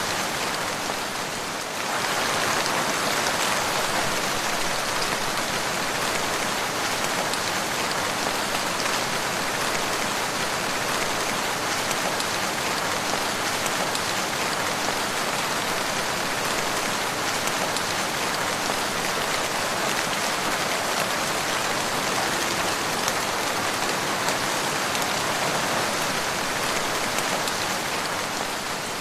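Steady rain, an even hiss of many drops, dipping slightly in loudness in the first two seconds.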